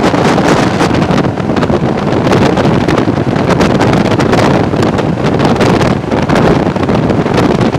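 Wind rushing over the microphone at the open window of a moving passenger train, mixed with the steady rumble of the train's wheels on the rails.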